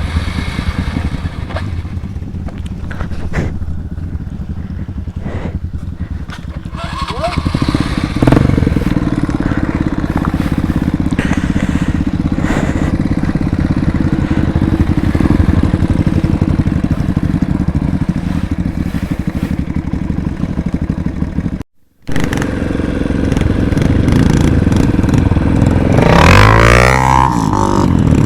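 Off-road trail motorcycle engine running under way, getting louder about a quarter of the way in. Near the end it revs up and down. There is a brief cut-out of the sound about two-thirds through.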